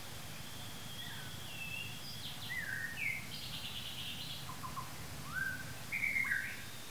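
Wild birds singing: a string of short whistled notes sliding up and down, with a rapid trill a little past the middle and the loudest phrases near the end, over a steady low background noise.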